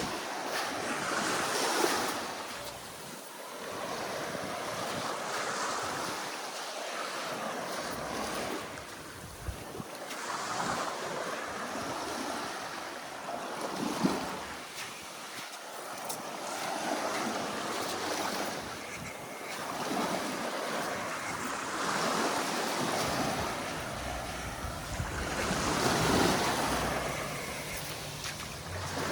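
Sea waves washing onto the beach, each one swelling and fading every few seconds, with wind noise on the microphone.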